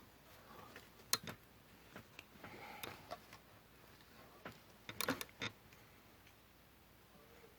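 Light scattered clicks and short paper rustles from hand papercraft work, likely paper parts and small tools being handled, with a cluster of sharper clicks about five seconds in.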